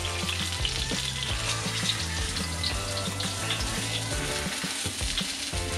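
Hot oil sizzling steadily in a frying pan as breaded pork schnitzels shallow-fry, with a few light clicks of a spatula against the pan.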